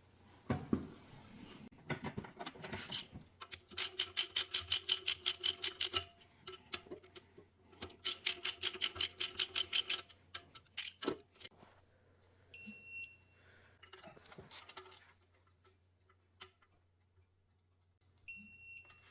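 Hammer tapping on metal in two quick runs of about six ringing strikes a second, with single knocks between, and two short high electronic beeps, one past the middle and one near the end.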